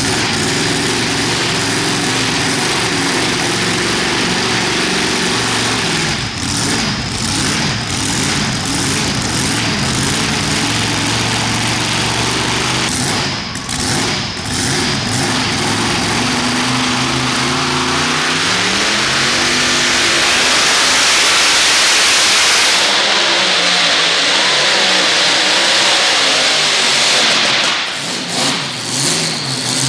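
Modified pulling tractor engine running hard at high revs for a long, continuous stretch, its pitch climbing a little past halfway and a loud hiss building in the upper range soon after, then faltering near the end.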